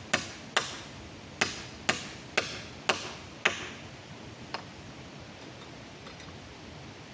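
Repeated sharp tool strikes, about two a second, that stop about three and a half seconds in, with one faint knock a second later, over a steady background hiss.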